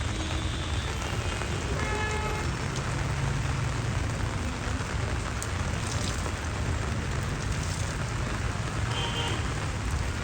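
Heavy rain falling on a street as a steady, even hiss, with a low rumble of road traffic underneath.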